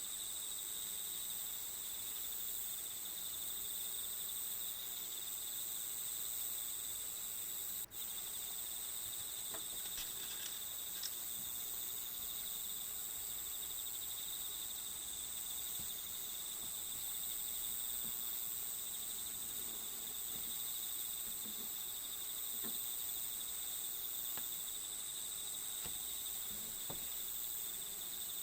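Steady chorus of crickets, a continuous high-pitched chirring that hardly varies, with a brief dropout about eight seconds in and a few faint light clicks in the later part.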